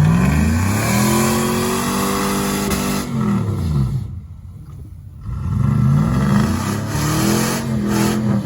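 Chevrolet Silverado pickup's engine revving hard, held high for about two seconds, then dropping back. After about a second of lull it revs up again and holds near the top. The truck is running on front-wheel drive only, its rear driveshaft removed.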